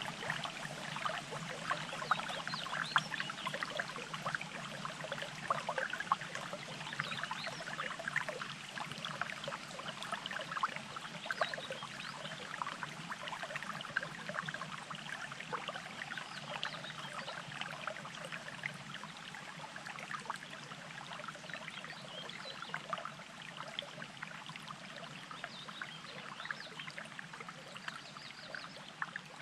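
Water burbling and trickling steadily in a small mountain stream, growing a little fainter over the second half.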